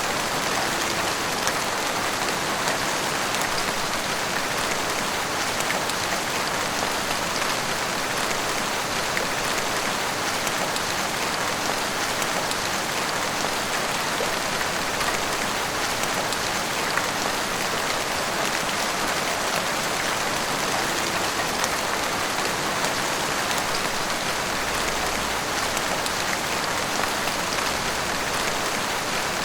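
Heavy rain falling steadily on a street and rooftops, a dense, even hiss of drops with scattered individual drop hits.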